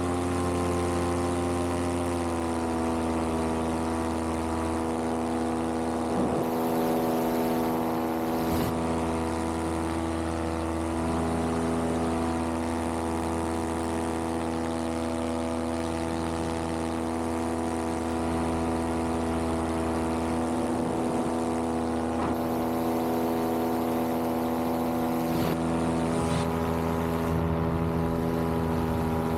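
Vittorazi Moster 185 paramotor's single-cylinder two-stroke engine and propeller running steadily at cruise power in flight. The pitch drops slightly about two seconds in and then holds even.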